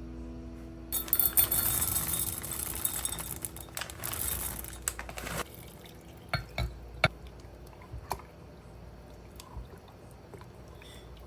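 Liquid poured for about four seconds, then a few light clinks and knocks of kitchenware.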